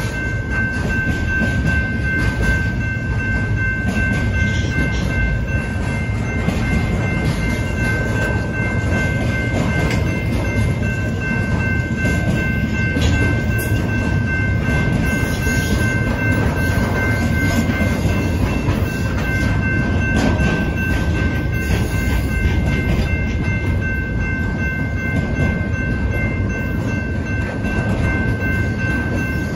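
An intermodal freight train of trailers on flatcars rolling past at speed: a steady heavy rumble of wheels on the rails, with scattered clicks, under a steady high-pitched tone.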